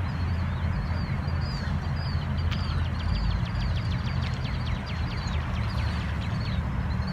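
Small birds chirping, with a fast run of quick falling notes through the middle, over a steady low rumble.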